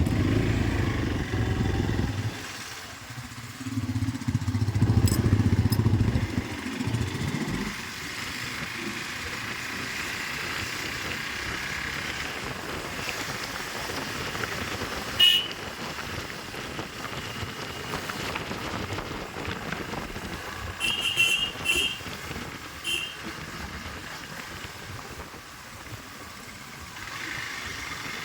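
Hero XPulse 200 4V motorcycle on the move, with heavy low rumble for the first several seconds and then a steady running noise. A short horn toot comes about halfway through, and a few quick horn beeps follow about three quarters of the way in.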